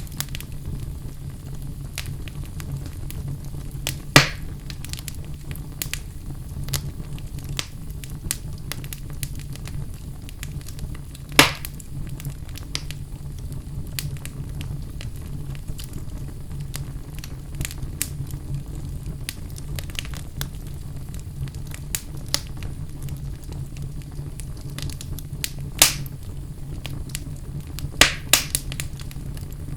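Wood fire in a fireplace crackling steadily over a low, even rumble of flames. A handful of louder sharp pops stand out, about four seconds in, near the middle, and two or three close together near the end.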